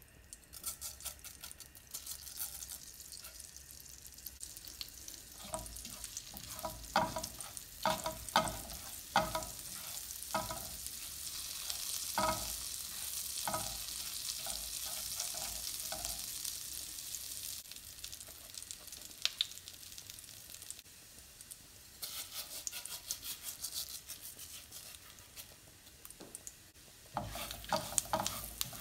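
Cumin seeds sizzling in hot melted butter in a nonstick pan, stirred with a silicone spatula that knocks and scrapes against the pan in a run of strokes and again near the end.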